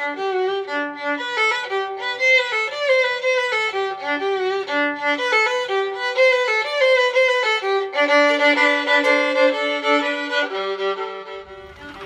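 Violin music: a bowed violin playing a quick melody over lower held notes, fading near the end.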